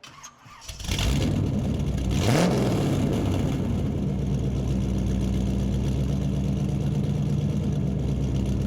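Car engine starting up, with a brief rev a couple of seconds in, then running steadily at idle.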